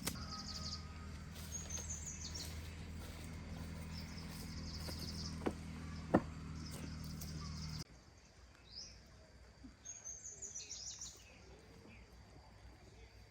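Birds chirping in short calls, over a low steady hum that cuts off abruptly about eight seconds in; two sharp clicks sound a little before the hum stops.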